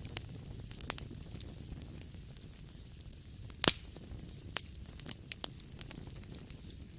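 Wood fire crackling: scattered sharp pops over a low steady rumble, with one loud pop a little past halfway.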